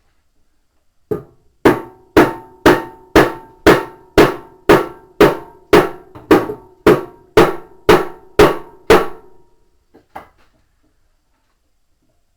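Hammer blows on the parts of a washing machine's drum and tub during reassembly. There are about sixteen evenly spaced blows, two a second, each ringing briefly, then one weaker blow about a second later.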